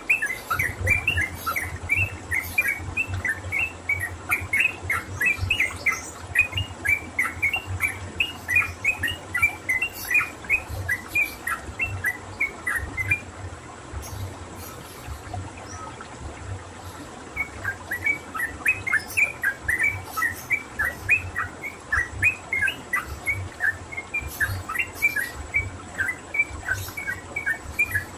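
Yellow-vented bulbul (trucukan) calling a fast run of short, sharp chirps, about three a second. The run breaks off for a few seconds midway and then starts again, over a low hum.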